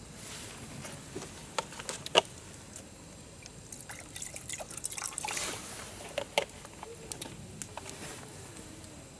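Liquid trickling as a drink, likely sake, is poured, with a brief stretch of pouring about four to five and a half seconds in. Sharp clinks and knocks, the loudest about two seconds in, are scattered through it.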